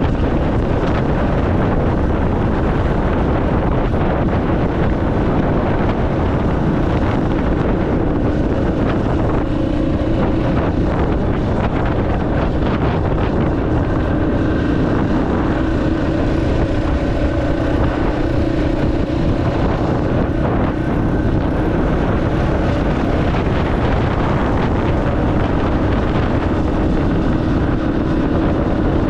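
Dual-sport motorcycle running steadily at riding speed, its engine tone wavering slightly under heavy wind noise on the microphone.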